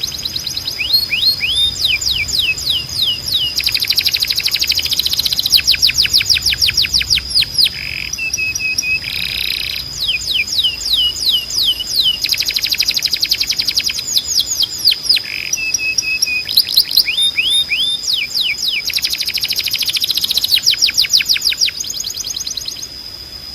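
Domestic canary singing: fast trills of repeated downward-sweeping high notes in phrase after phrase, broken twice by a short flat held note, over a steady thin high whine.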